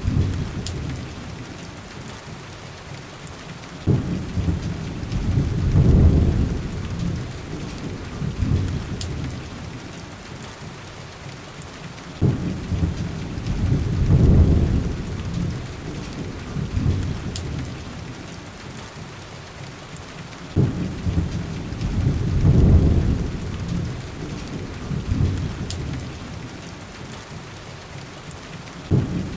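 Heavy rain pattering steadily on glass, with deep rolling rumbles about every eight seconds, each starting sharply and swelling for a couple of seconds. A few faint crackles sit on top.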